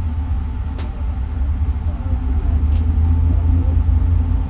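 Drag race car's engine idling, a steady low rumble heard from inside the cockpit, with a couple of faint clicks.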